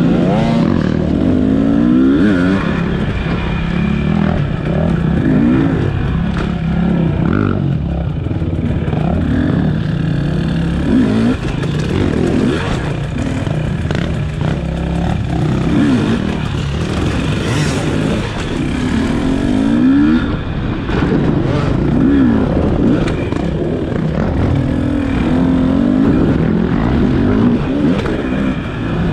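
Enduro motorcycle engine revving hard and dropping back over and over, its pitch rising and falling with each burst of throttle as the bike works through obstacles.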